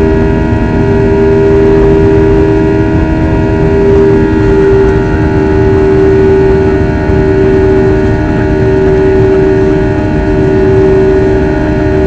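Aircraft engines running steadily: a loud, even drone with a strong, unchanging hum.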